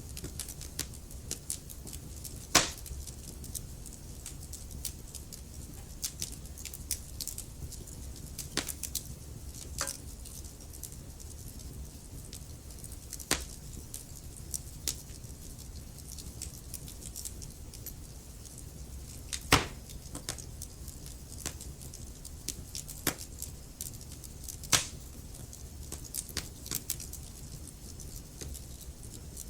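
Wood fire crackling: a steady low rumble of the flames with many small irregular snaps, and a few louder pops at about two and a half, nineteen and a half and twenty-five seconds in.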